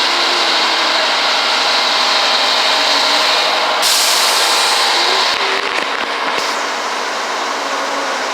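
Tree-service machinery running loudly and steadily with a harsh hiss. The hiss grows brighter about four seconds in and eases off a little around six seconds.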